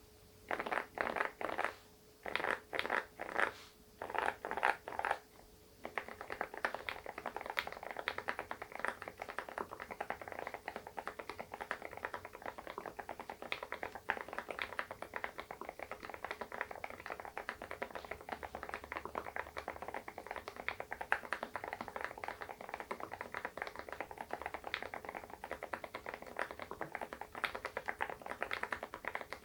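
Fast typing on an SPM PL108W full-size mechanical keyboard: a few short flurries of keystrokes in the first six seconds, then rapid, continuous key clatter.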